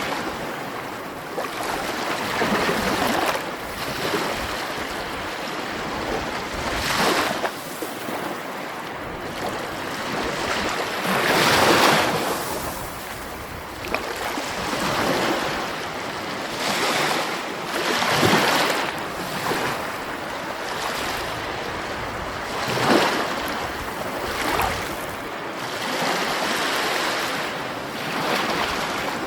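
Ocean waves breaking on the shore, a steady wash of surf with a swell and crash every few seconds. The biggest break comes about twelve seconds in.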